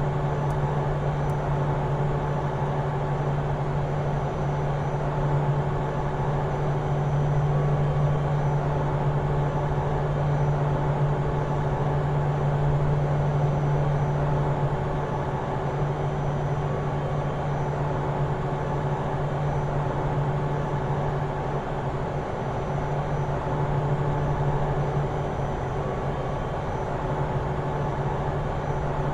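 Steady cockpit drone of a Pilatus aircraft in its climb, engine and airflow noise with a strong low hum and fainter higher tones. It holds level with no breaks.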